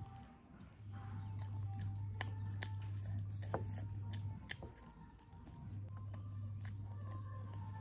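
Close-up chewing of soft boiled yam, with many small wet mouth clicks and light taps of a metal fork, over a steady low hum that drops out briefly about midway.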